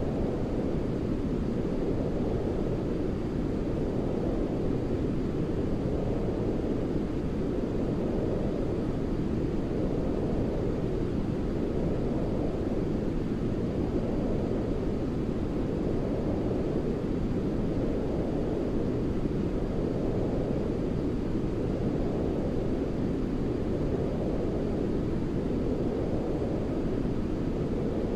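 Steady, deep, low-pitched noise for soothing a baby to sleep, closer to brown noise than hissy white noise. It swells gently every two to three seconds.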